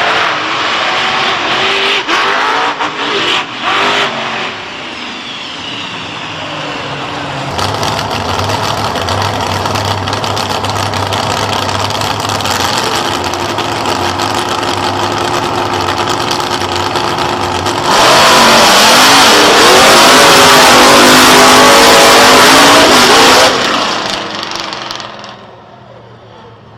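Powerful race engine running and revving: uneven with short cut-outs in the first few seconds, steadier through the middle, then much louder for about five seconds as it revs hard with rising and falling pitch, before fading away near the end.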